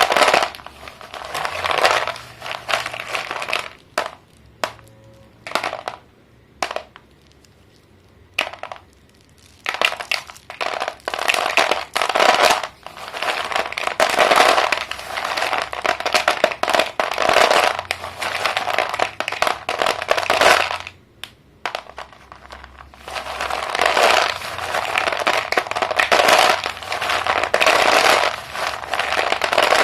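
Sticks of chalk being crumbled and broken, crunching and snapping in bursts with short pauses, and a quieter stretch of a few single snaps from about four to nine seconds in.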